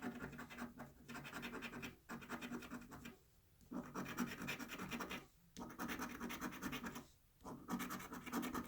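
A scratch-off lottery ticket being scratched, its coating rubbed off in quick back-and-forth strokes, in about five short bursts with brief pauses between them.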